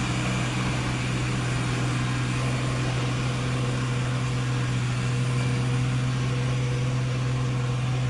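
Isuzu truck's diesel engine running steadily, a constant low hum with no change in speed.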